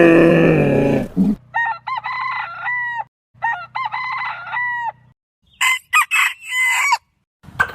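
Rooster crowing: two crows of about two seconds each over a low steady hum, then a third, harsher crow near the end. The first second or so is the end of a deep, falling animal call.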